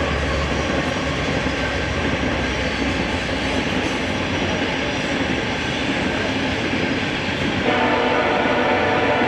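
Antique stationary gas engines running, a dense, steady mechanical clatter with a droning tone. About eight seconds in the sound changes abruptly and gets a little louder.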